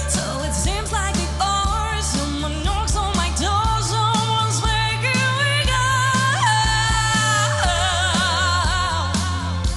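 Live pop song with a lead vocal singing over bass and drums; the bass steps to a new note about three and a half seconds in and drops back near the end.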